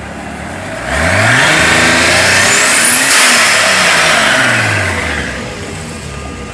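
Turbocharged 1983 Datsun 280ZX straight-six, fed by a blow-through carburetor in a 1973 Datsun 240Z, idling and then revved once. The revs climb for about two seconds with a thin whistle rising alongside, then fall back to idle.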